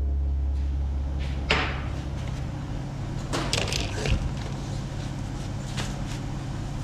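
A few scattered knocks and clicks over a steady low hum.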